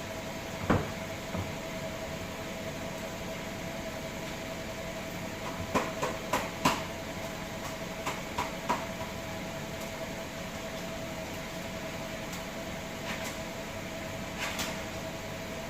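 A car sits running with a steady hum, while a few sharp clicks and knocks sound about a second in, in a cluster near the middle, and again near the end, like doors or controls being handled.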